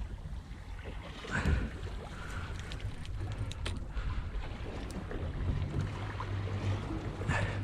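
Wind buffeting the microphone over a low rumble aboard a small fishing boat, with a few light clicks and knocks and a steady low hum coming in after about five seconds.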